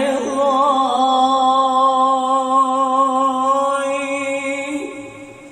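A male voice singing one long held note of an Arabic devotional song, wavering slightly. A short new sung syllable comes near the end as the voice fades away.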